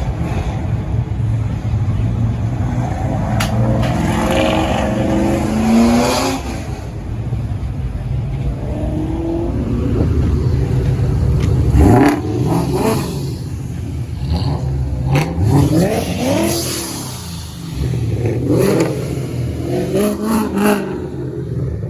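Ford Mustang engine running with a steady exhaust rumble, revved up and down several times.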